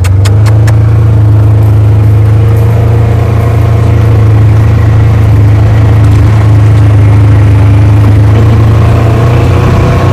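A vehicle engine running steadily close by, with a low, even drone. A few clicks come right at the start.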